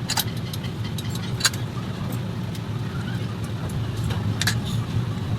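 A vehicle engine running at a steady idle, a low rumble, with a few sharp metallic clicks over it.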